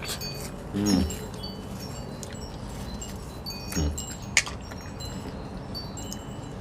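Wind chimes tinkling with scattered high ringing notes, and two brief low vocal sounds from a person about one and four seconds in.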